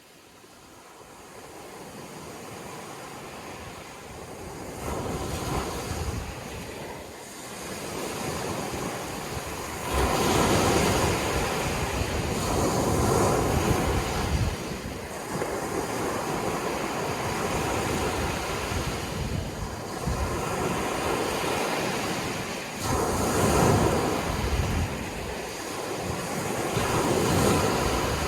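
Ocean waves breaking on a shore, a steady rushing wash that swells and eases in repeated surges, fading in from near silence over the first couple of seconds.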